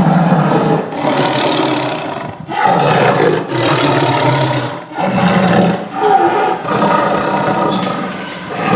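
Lion roars, about six or seven in a row, each rough and lasting a second or so with short breaks between: a lion roar sound effect.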